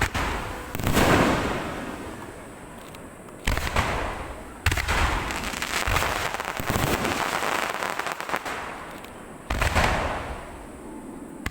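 Aerial firework shells bursting in a finale: four deep booms, about a second in, at three and a half seconds, near five seconds and near ten seconds, each followed by a long crackling tail.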